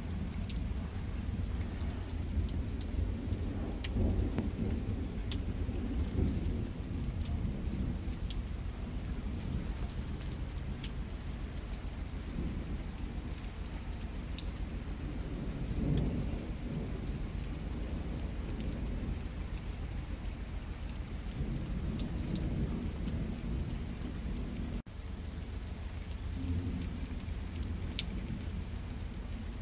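Steady rain falling, with scattered sharp ticks of drops and a low rumble that swells and fades several times. The sound cuts out for an instant near the end, then resumes.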